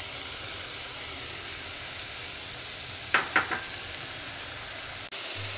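Vegetables sizzling steadily in oil in a pressure cooker as dry broken wheat (daliya) is poured in on top. Three quick taps come just after the middle.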